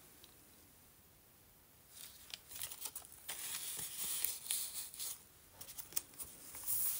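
Paper pages of a handmade journal being handled and turned, rustling and crinkling with small taps, starting about two seconds in after a near-silent pause.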